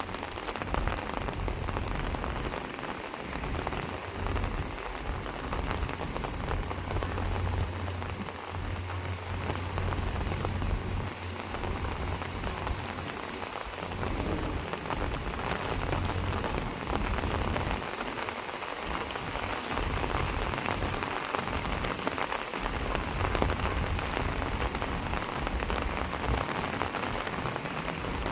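Steady rain falling and pattering on surfaces, with a low rumble that comes and goes underneath.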